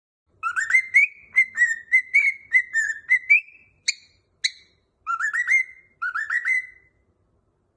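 Cockatiel whistling a tune: a run of quick rising whistled notes, then two sharp chirps about four seconds in, then two shorter rising phrases.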